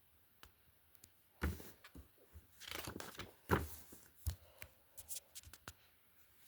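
Packaging being handled and opened by hand: scattered clicks and knocks with a stretch of rustling in the middle, the loudest knocks about one and a half and three and a half seconds in.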